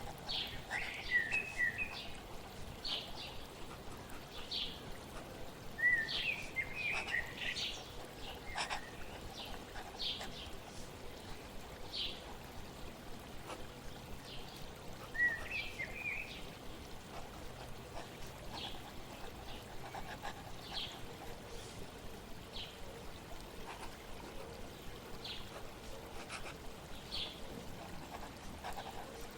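Water trickling steadily with birds chirping over it in short bursts, loudest about a second in, around six to eight seconds in, and around fifteen seconds in.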